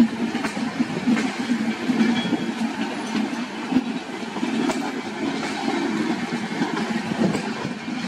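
Indian Railways passenger coaches rolling past, steel wheels running on the rails with a steady rumble and scattered irregular clicks.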